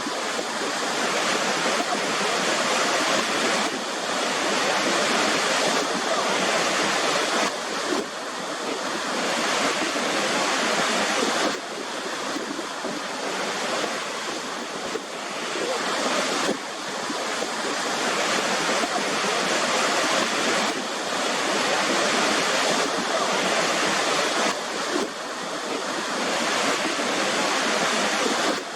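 Waterfall: a steady rush of falling water, with a sudden small change in level every few seconds.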